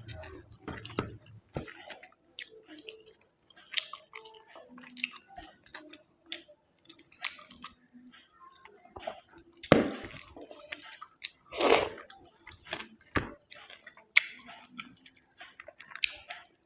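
Close-miked chewing and wet mouth sounds of a person eating chicken biryani, with many small clicks and smacks. Two louder sharp sounds come about 10 and 12 seconds in.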